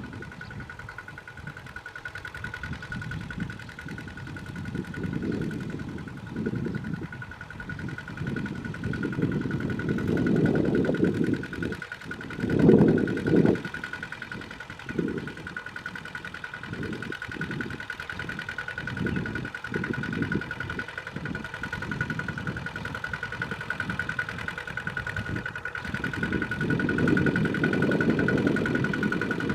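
Small Kubota tractor's engine running as it plows, its level rising and falling with the work, with a brief louder surge about twelve seconds in and a build toward the end. A steady high-pitched whine runs alongside.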